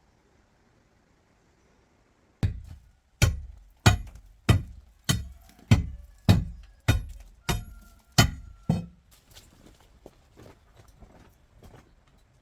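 Hammering: about ten sharp, evenly spaced blows, roughly one every two-thirds of a second, with a faint ring after some of them, then a few lighter knocks near the end.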